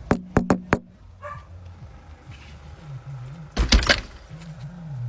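A dog barking: a quick run of about four short, sharp sounds in the first second, then one louder bark a little past halfway.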